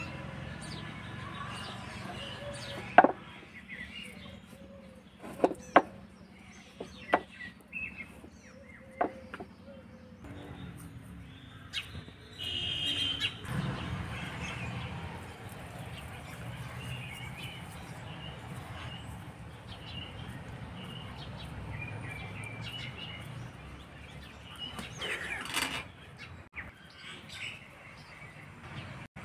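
Birds chirping in the background, with several sharp knocks and clicks between about 3 and 9 seconds in, the loudest about 3 and 6 seconds in.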